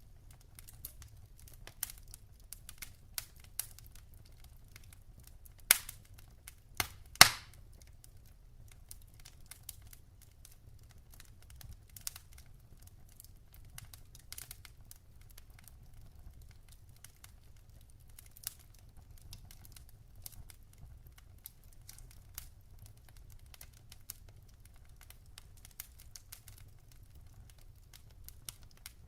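Logs burning in a fireplace: a steady run of small crackles with a few louder pops, the loudest about seven seconds in, over a low, even background noise.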